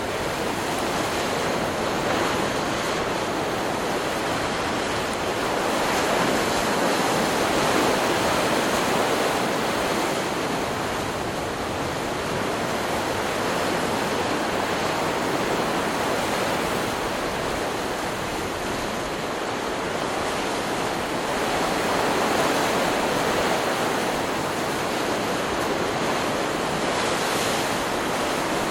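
Stock recording of ocean surf: a continuous wash of waves, swelling a little louder a few times and easing off again.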